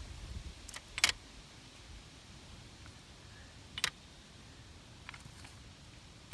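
A few sharp clicks with a faint rattle between them; the loudest comes about a second in and another just before four seconds.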